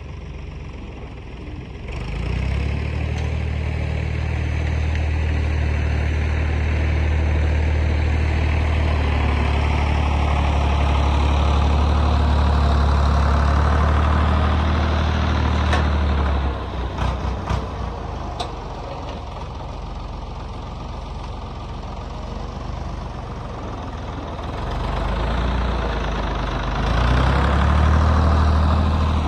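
Diesel vehicle engine running steadily under load. About halfway through it drops to a quieter note amid a few sharp clicks, then it picks up again near the end.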